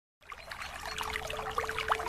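Dense chorus of many small birds chirping, with quick overlapping calls, some sweeping upward, fading in just after the start. A steady held low note joins about a second in.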